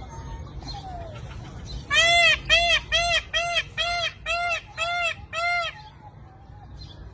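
A bird calling loudly in a run of about eight arched, honking notes, roughly two a second, starting about two seconds in and stopping near six seconds.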